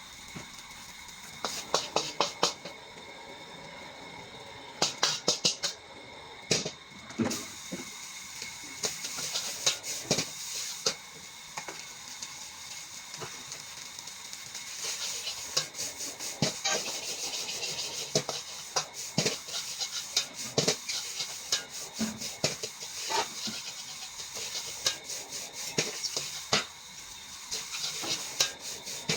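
Fried rice sizzling in a wok with a steady hiss, while a metal spatula knocks and scrapes against the pan in quick irregular clusters.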